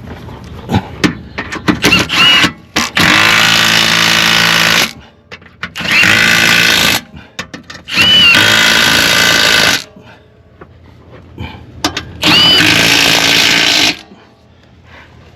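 Power tool driving bolts home, run in four bursts of one to two seconds, each opening with a rising whine, with a few sharp clicks and knocks before the first.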